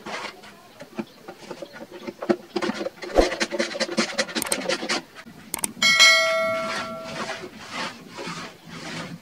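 Workshop handling noise: a run of clicks, knocks and rattling of tools and material being worked, then about six seconds in one sharp metallic clang that rings and fades over about a second and a half.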